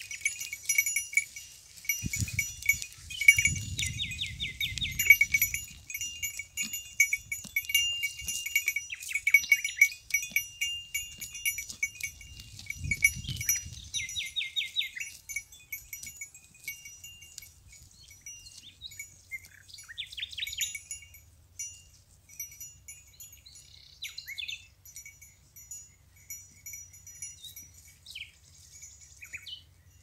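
Small bells worn by grazing goats tinkling irregularly as the animals move about. Wind buffets the microphone in a few low gusts during the first half.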